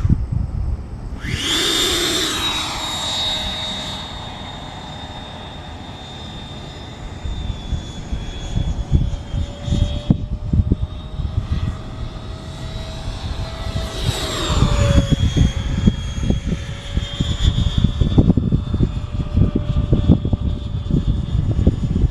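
Airplane taking off overhead: engine noise swells in sharply about a second and a half in and swells again later with a falling pitch as it passes, with a steady whine running through. Gusty wind buffets the microphone throughout.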